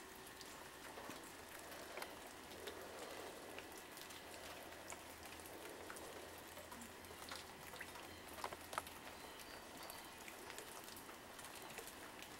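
Faint, steady patter of a spring snowstorm's wet snow hitting surfaces, with many light ticks scattered through it and a couple of slightly sharper ones about two-thirds of the way in.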